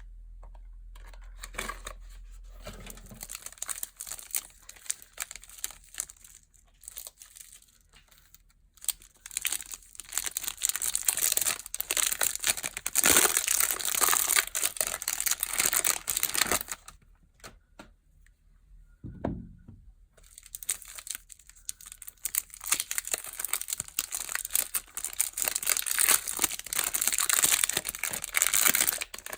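Soap packaging being unwrapped by hand: the wrapping crinkles and tears in two long stretches, after a few seconds of small scattered rustles. A single soft thump falls between the two stretches.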